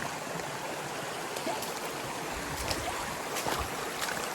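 Steady hiss of running water, with a few scattered light clicks and some low thumps in the second half.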